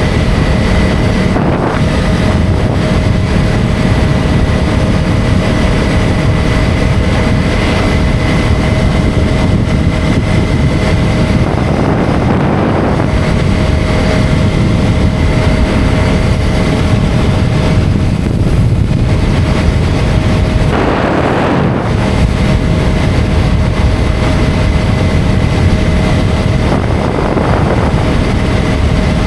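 KTM Duke 250's single-cylinder engine running at a steady cruise, mixed with heavy wind noise on the microphone. The steady engine note drops out briefly twice, about twelve and twenty-one seconds in.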